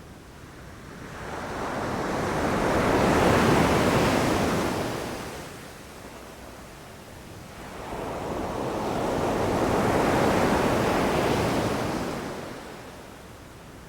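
Sea waves breaking on a beach, two in turn. Each rush swells over a couple of seconds, peaks and fades away as the wash draws back, the second coming about six seconds after the first.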